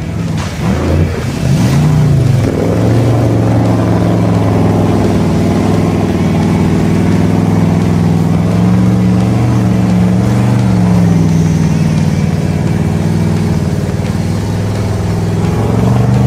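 A vehicle engine revs up in the first couple of seconds, then runs steadily at a high, slightly wavering pitch.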